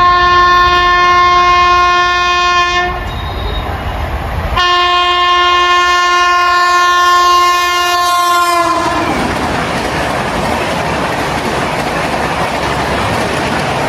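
Indian Railways locomotive horn sounding two long blasts, the second dipping slightly in pitch just before it cuts off. The train then passes at speed with a loud rushing noise and wheel clatter.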